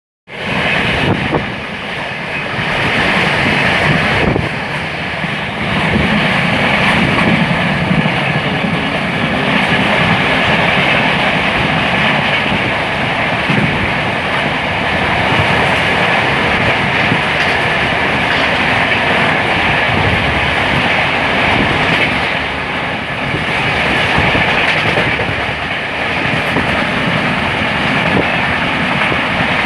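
Passenger train running at speed, heard from on board: a steady rumble and rush with the wheels clattering over the rail joints.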